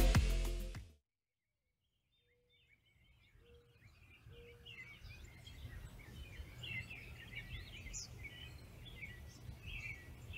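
Music ending within the first second, then a brief silence, then outdoor birdsong fading in: many small birds chirping and twittering over a low steady rumble. Three short low notes sound about two to four and a half seconds in.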